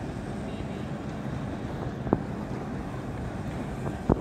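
Diesel-hauled passenger train running along an elevated rail line, a steady low rumble, with two sharp clicks, one about halfway and one near the end.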